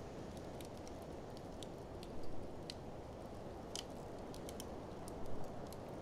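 Wood fire crackling, with scattered sharp pops and snaps, over a steady low rush of blizzard wind.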